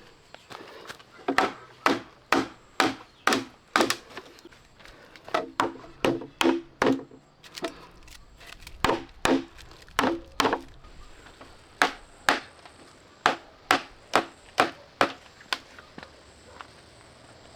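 Repeated blows of a tool on wood, about two a second, in four bursts of several strikes with short pauses between them.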